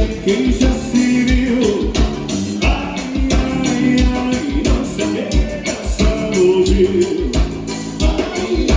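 Live gaúcho dance music from an accordion-led band, melodic lines over a steady bass and drum beat of about two pulses a second.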